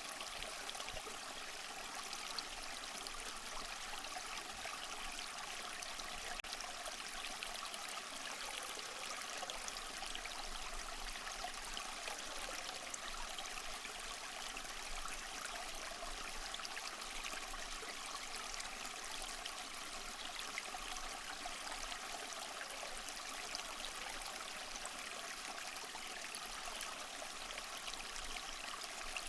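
Small mossy waterfall: water trickling and splashing over rocks in a steady, even rush.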